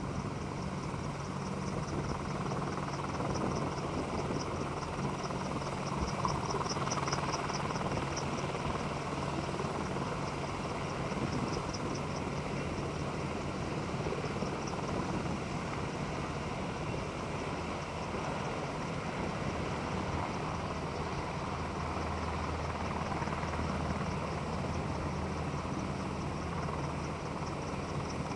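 Helicopter running steadily, a continuous noisy drone with a low steady hum beneath it. A fast high chirping pulse runs along with it.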